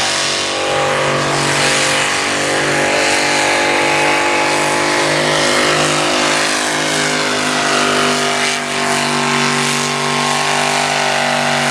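Naturally aspirated two-wheel-drive pulling truck's engine held at high revs under full load through a pull, a loud, steady, high-pitched note with slight wavers in pitch.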